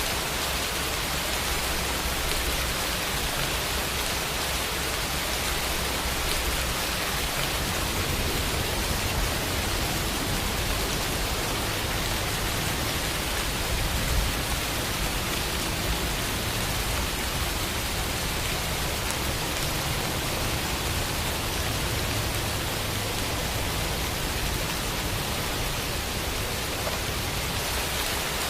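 Steady rainfall, a dense even hiss of many drops.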